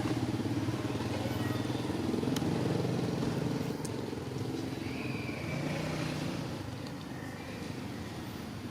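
An engine running steadily and slowly growing fainter, with a few faint high chirps over it.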